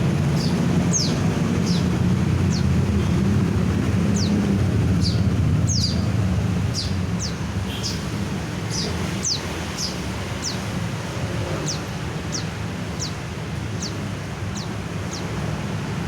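A white-eye (pleci) calling in short, thin, high chirps that each drop quickly in pitch, about one to two a second and evenly repeated. Under them runs a steady low rumble like traffic noise.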